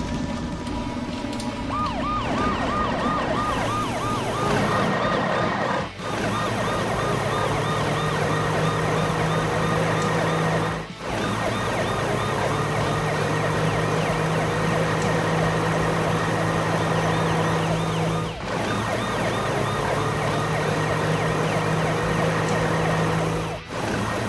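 Police sirens in a cartoon chase, overlapping. A fast yelp rises and falls about four times a second, and a slower wail climbs every few seconds, over a steady low hum. The sound drops out briefly a few times.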